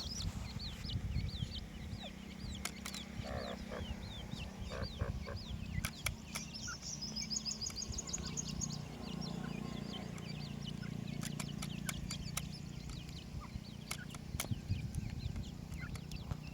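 Francolin chicks cheeping: many short, high, downward-sliding peeps overlapping, with a quick run of high notes about seven seconds in. Scattered clicks and a steady low hum lie underneath.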